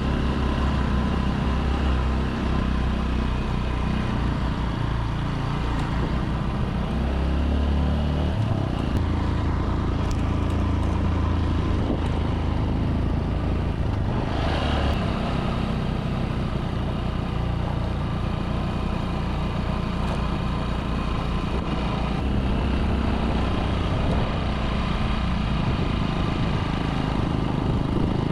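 A small motorbike engine running under way, its note shifting a few times, with wind and road noise over the microphone.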